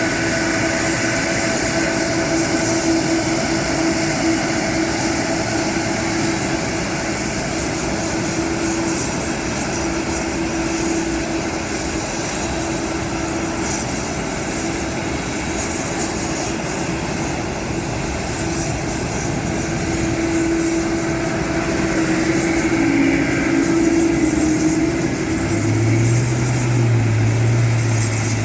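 Boeing 777 jet engines running at a steady level: a continuous rush of noise with a high whine over a lower hum. A deeper hum comes in near the end.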